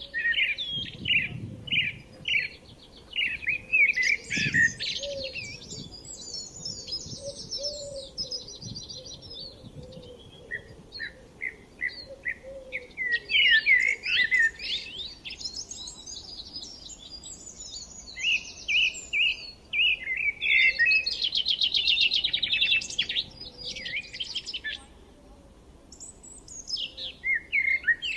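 Several songbirds chirping and singing together, in bursts of rapid chirps and trills with short lulls between them.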